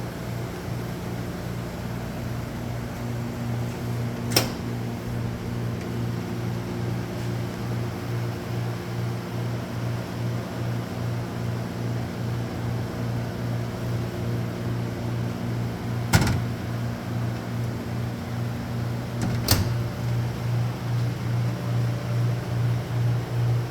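A machine running with a steady low hum that pulses about twice a second, with three sharp clicks or knocks, the first about four seconds in and two more near the end.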